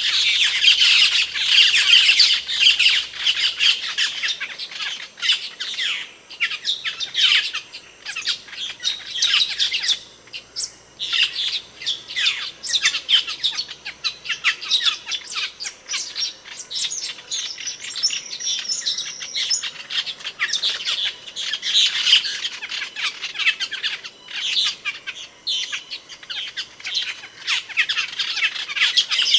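Asian glossy starling calling: a rapid, unbroken run of short, sharp, high chirps and squawks, with a brief lull about ten seconds in.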